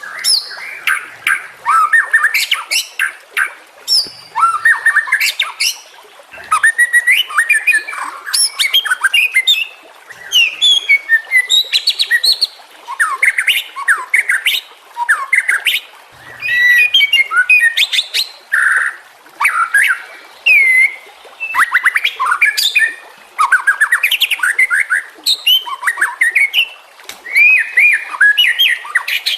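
White-rumped shama (murai batu) singing a long, varied song. It runs in quick phrases of rising and falling whistles, rapid clicks and trills, with short pauses between them.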